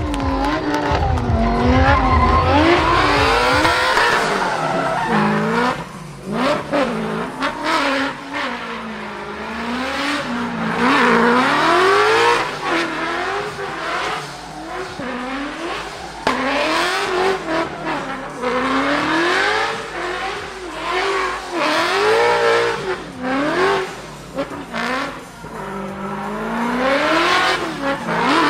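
A drift car's engine revving up and down over and over, with tyres squealing as the car slides.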